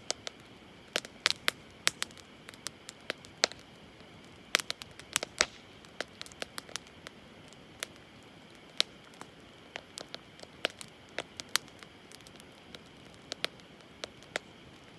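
Wood campfire crackling: sharp, irregular pops and snaps, some in quick clusters, over a low steady hiss.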